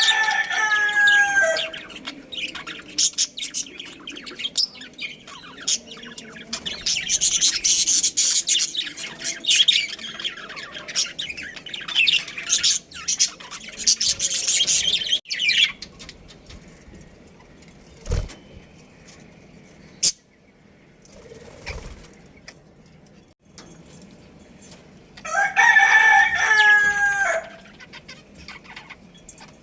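A rooster crowing, one crow ending just after the start and a second crow of about two seconds near the end. Between them budgies chatter with rapid high chirps.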